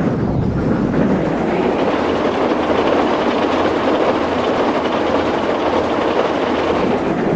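Train running, a steady loud rumble with a faint clatter of wheels on rails.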